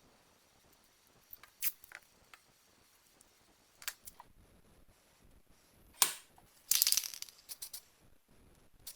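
Sparse light clicks and knocks of small parts and tools being handled, with a short burst of rapid rattling clicks about seven seconds in.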